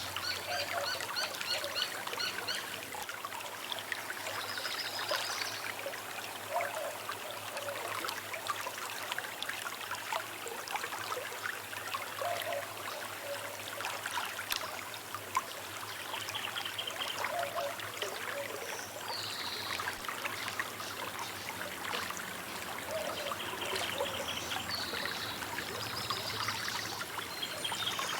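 Small river running with a steady trickling rush of water. Birds call every few seconds over it, some with short high chirps and others with lower, shorter calls.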